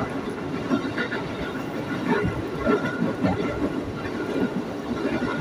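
Electric commuter train (KRL) running at speed, heard from inside the car: a steady rumble with the wheels rattling and clacking over the track.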